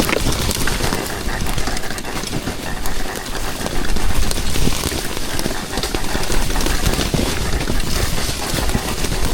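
Dirt bike ridden on a trail: a continuous rush of engine and wind noise, broken by many short knocks and clatters from the rough ground.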